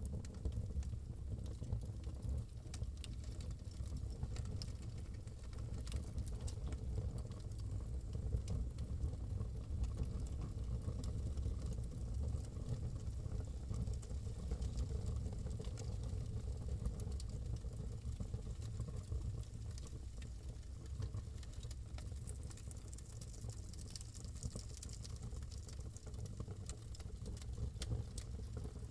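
Wood fire burning in a fireplace, crackling with scattered sharp pops and snaps over a steady low rumble.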